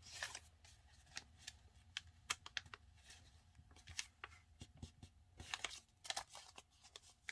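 Sheet of printer paper being folded and creased by hand: soft rustles and a scatter of short crackling clicks as the fold is pressed down.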